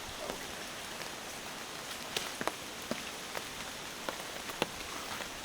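Steady rain falling, an even hiss with scattered sharp ticks of drops striking close by.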